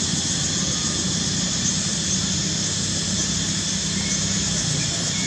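Steady low engine hum over a constant hiss, with a few faint chirps.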